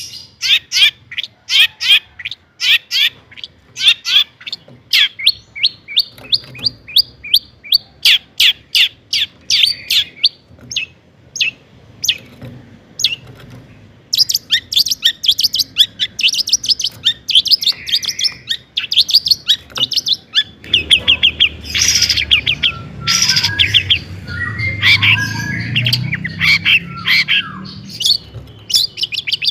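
Long-tailed shrike singing: a long series of sharp, high repeated notes, a few each second, breaking into faster runs and more varied mimicked phrases later on. A low rumble runs under the song from about two-thirds through.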